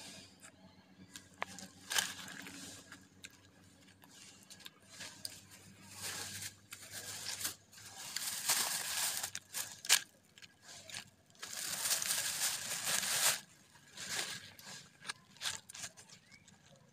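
Crunchy chewing and tearing of fried food eaten by hand, in several crackling bursts a second or two long, with scattered small clicks between them.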